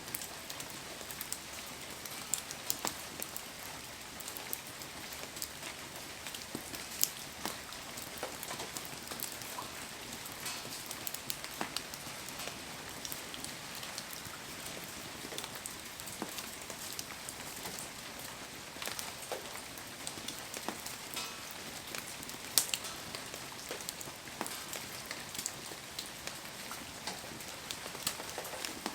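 Heavy rain falling steadily, with many scattered sharp ticks and pops, a few of them much louder.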